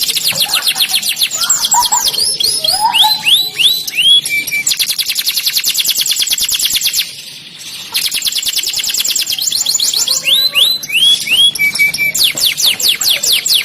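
Domestic canary singing: fast rolling trills alternating with runs of downward-sweeping whistled notes, with a brief pause about halfway before the song resumes.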